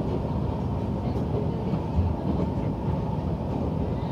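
Steady running noise of a diesel railcar heard from inside the cabin: engine and wheels on the rails, with a faint steady high tone and a low bump about two seconds in.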